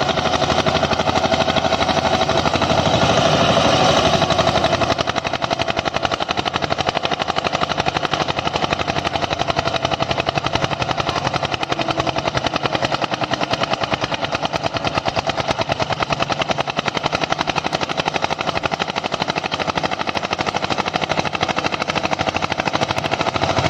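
Eicher 241 tractor's single-cylinder diesel engine running at full throttle and labouring under heavy load as it drags a 9-tine cultivator with its tines lowered into the soil. A steady, fast, even chugging that eases slightly in level after about four seconds.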